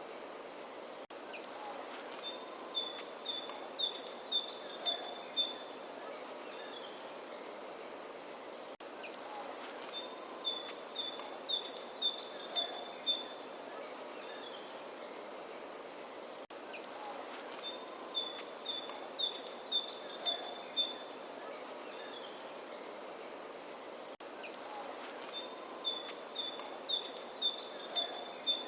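A songbird's song, the same phrase four times at even spacing about eight seconds apart. Each phrase opens with a few high notes that drop, then runs into two strings of quick, even notes, the second string a little lower. Faint steady outdoor background noise underneath.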